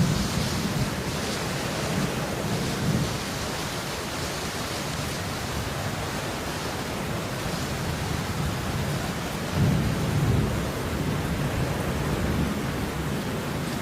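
Steady rain hiss with no letup, with a low rumble swelling twice: once near the start and again about ten seconds in.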